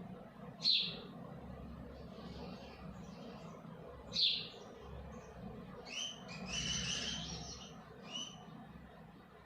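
Bird chirping: single sharp, falling calls about a second in and about four seconds in, then a busier run of chirps around six to seven seconds, over faint low background hum.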